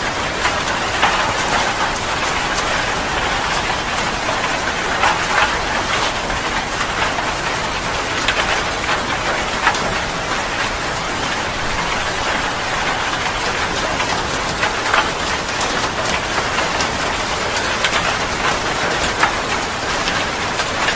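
Heavy rain falling steadily, a dense hiss with many sharp drop ticks scattered through it.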